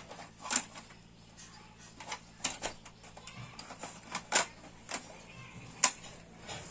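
Irregular clicks and knocks of toy pieces being handled and fitted together, with one sharper click near the end.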